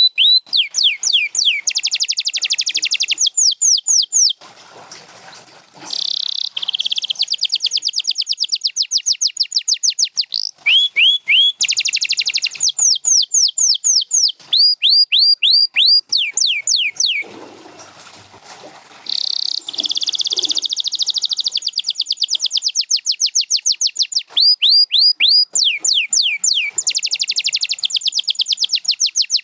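Domestic canary singing: long phrases of fast, evenly repeated falling whistles and rapid trills, broken by two short pauses.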